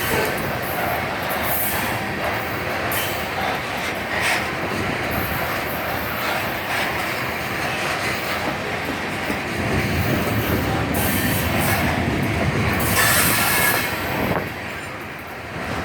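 Freight train rolling past, steel wheels running on the rails with a high squeal that comes and goes, loudest near the end.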